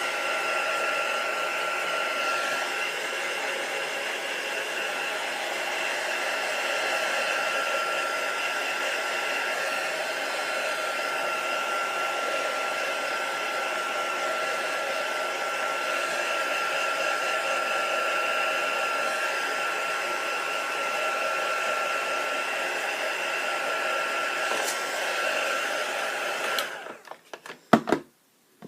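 Hand-held electric blow dryer running steadily with a constant high whine, drying wet acrylic paint; it cuts off about 27 seconds in, followed by a couple of sharp knocks.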